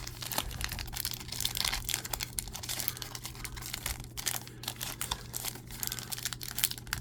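Crinkling and crackling of a foil trading-card pack wrapper being handled and worked open, slowly and with difficulty, over a steady low hum.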